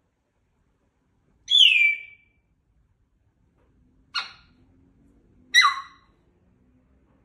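Pet parrot calling three times: a loud downward-sliding whistled call about a second and a half in, a short sharp call about four seconds in, and another call falling in pitch about five and a half seconds in.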